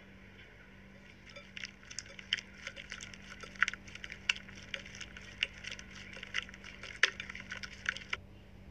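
Slime being worked by hand, crackling with a rapid, irregular run of small pops and clicks that starts a little over a second in and stops shortly before the end.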